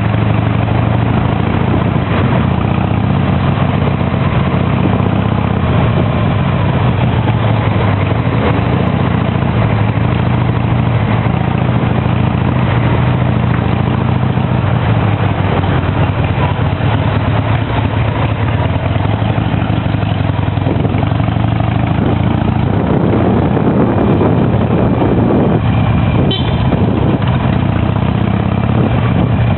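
Harley-Davidson V-twin motorcycle engine running steadily under way, mixed with wind and road noise.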